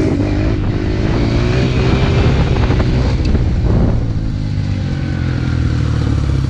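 Dirt bike engine running under way, its pitch climbing gently for about four seconds, then easing off.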